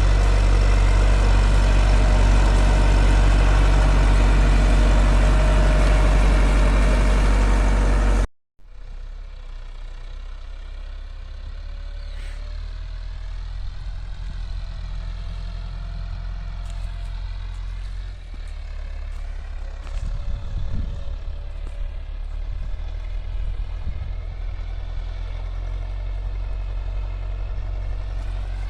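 Massey Ferguson 385 tractor's diesel engine running, loud and steady for the first eight seconds. After a sudden cut it continues quieter, its pitch wavering up and down as the engine works under the load of a disc harrow.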